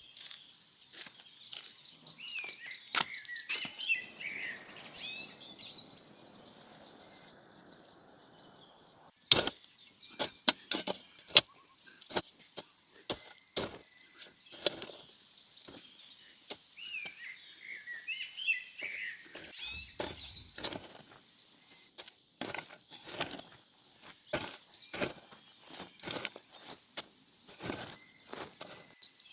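Birds chirping and twittering, over scattered sharp knocks and clicks throughout; the loudest knocks come about nine and eleven seconds in.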